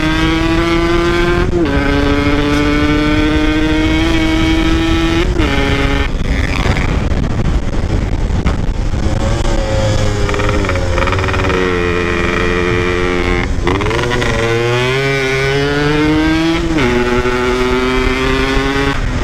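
Motorcycle engine pulling hard while riding, its note climbing through each gear and dropping at the shifts, about 1.5 s and 5 s in, again near the middle, and about 17 s in. A steady rush of wind runs underneath.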